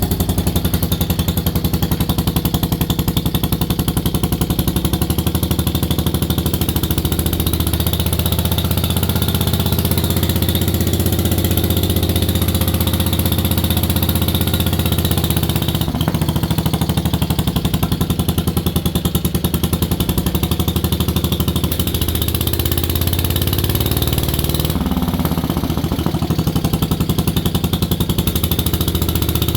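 Single-cylinder 10 hp Kohler engine of a 1973 Wheel Horse lawn tractor running steadily at a fast idle through a small muffler.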